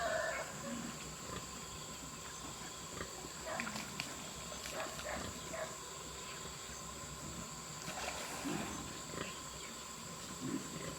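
Scattered short animal calls over a steady high hum.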